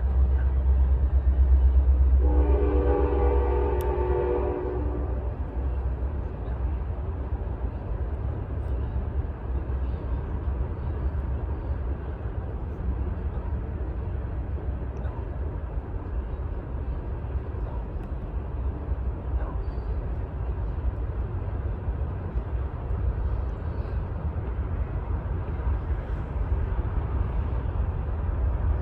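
Freight train led by EMD GP40-3 diesel locomotives: a heavy low engine rumble, with the locomotive horn sounding once for about three seconds a couple of seconds in. The rumble then eases into the steady noise of the train rolling by.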